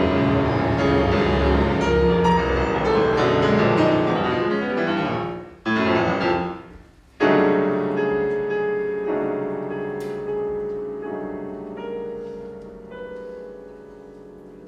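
Piano with a chamber string orchestra. Dense, loud chords run for the first five seconds or so. After a short break, a loud chord comes in about seven seconds in and slowly dies away, while quieter single notes are added over it about once a second.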